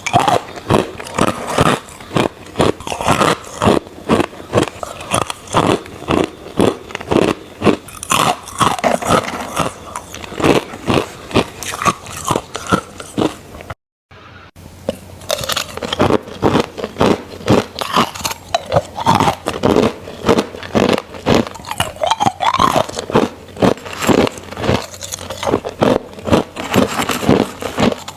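Crushed ice being bitten and chewed close to the microphone: rapid, irregular crunching, several crunches a second, broken by a short moment of silence about halfway.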